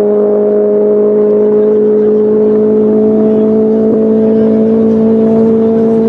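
Car engine at full throttle in a drag run, a steady high-revving note whose pitch climbs slowly as the car accelerates.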